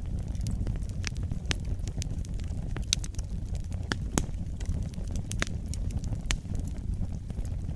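Wood fire burning, with a steady low rumble of flames and frequent irregular pops and crackles of burning wood, two sharper pops about three and four seconds in.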